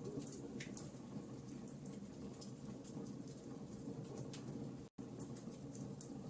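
Wood fire crackling in a fireplace: irregular sharp snaps and ticks over a low steady rustle of burning. The sound cuts out for an instant late on.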